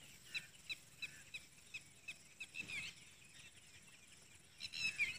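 Faint bird calls outdoors: a run of short, quick chirps, about three a second, then a louder burst of chirping near the end.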